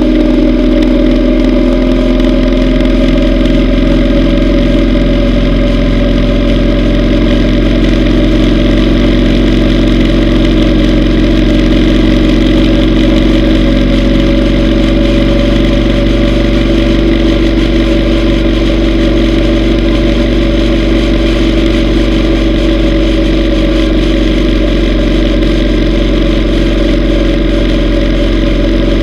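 Yamaha V Star 950 Tourer's air-cooled V-twin engine running steadily under way, its pitch and level holding nearly constant.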